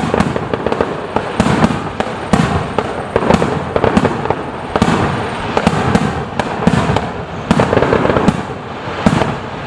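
Fireworks display: aerial shells bursting in quick succession, sharp bangs about one to two a second with crackling between them.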